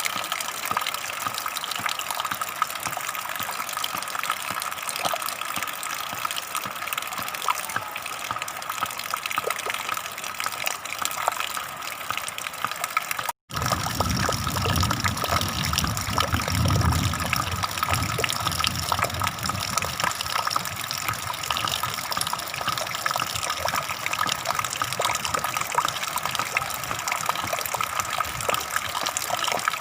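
Flowing water gushing steadily. About halfway through it cuts out for a split second, then comes back with a deeper low rumble for a few seconds.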